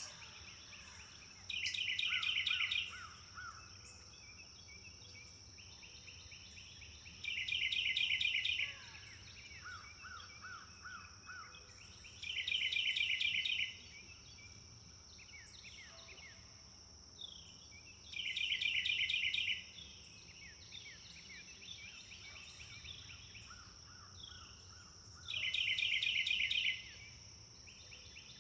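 Forest birdsong: one bird repeats a loud, fast trill about a second and a half long, five times at intervals of five to seven seconds, with quieter calls of other birds in between. A steady high-pitched drone runs underneath.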